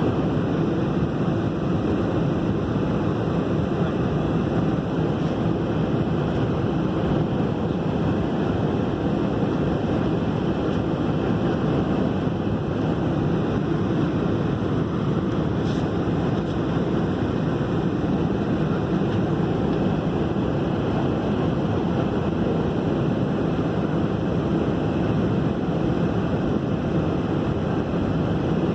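Steady, even rumble of a jet airliner cabin on the ground before take-off: engine and airflow noise at a constant level, with no changes in pitch or power.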